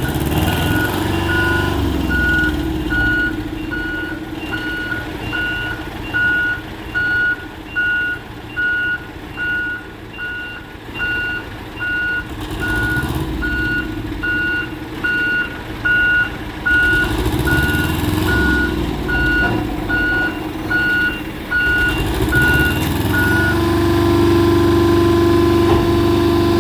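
Heavy truck's reversing alarm beeping evenly, a little under twice a second, over its running diesel engine. The beeping stops near the end and the engine note carries on, steady and stronger.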